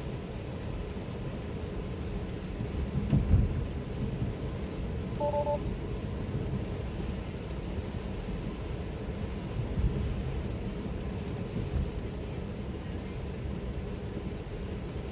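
Steady road and tyre rumble inside a Tesla's cabin on wet roads, with a few low thuds, the loudest about three seconds in. About five seconds in, a short two-tone alert chime sounds: the car's warning that Full Self-Driving may be degraded in the rain.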